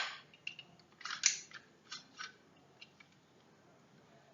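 Umarex Walther PPQ full-metal spring airsoft pistol being worked by hand: a cluster of metallic clacks from the slide and slide catch about a second in, then a few light clicks. The crack of the shot just fired fades at the very start.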